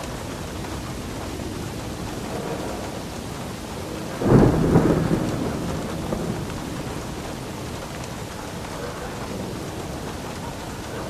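Steady rain, with a sudden thunderclap about four seconds in that rumbles away over the next few seconds.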